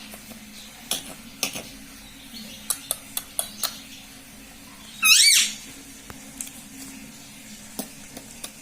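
Pet ringneck parrot: a scatter of sharp clicks and taps on a hard surface, then one loud squawk about five seconds in, its pitch rising and falling, about half a second long.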